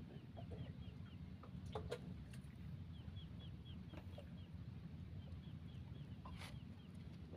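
A bird calling in several quick runs of short, falling chirps, about four or five a second, over a low steady rumble.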